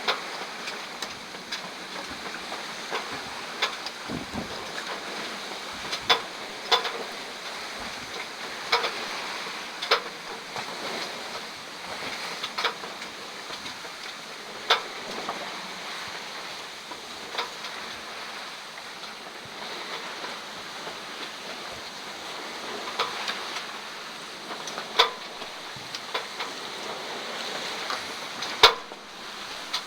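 Wind and water noise aboard a sailboat, with short sharp knocks at irregular intervals, every second or two.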